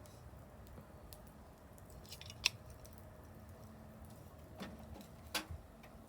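Wood fire crackling, with scattered small ticks and two sharp pops, about two and a half and five and a half seconds in.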